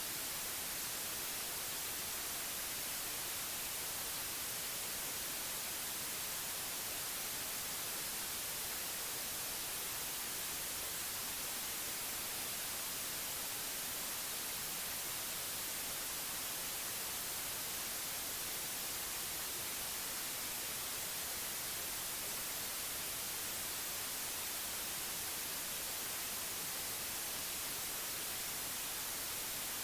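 Steady white noise: an even, unchanging hiss strongest in the high frequencies, with no other sound.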